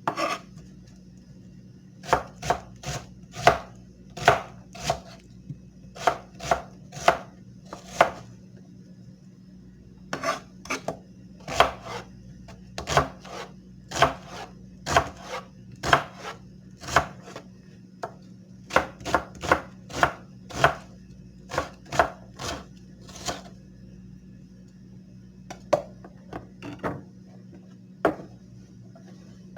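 Knife work by hand: runs of sharp, separate strikes, about two a second, with short pauses between runs, over a steady low hum.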